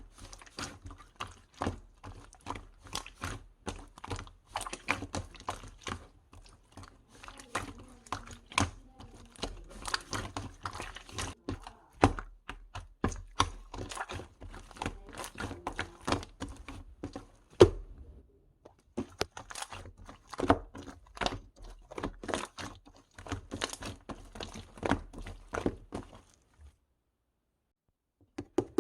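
Close-up handling sounds: quick, irregular clicks, crackles and soft thunks as hands squeeze and poke something, several a second. They stop for about two seconds near the end.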